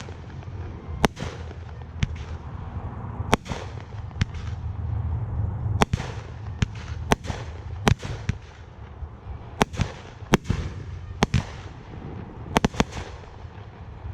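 Fireworks display: aerial shells bursting in a string of sharp bangs at irregular intervals, some followed by a fading tail, over a steady low rumble.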